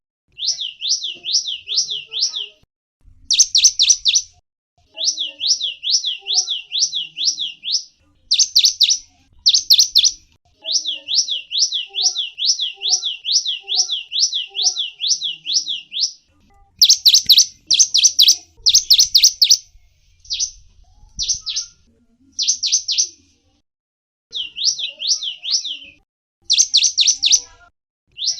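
Gelatik wingko songbird singing: bursts of fast, high, repeated chirping notes, several a second, broken by short pauses, with a few louder sharp notes around the middle.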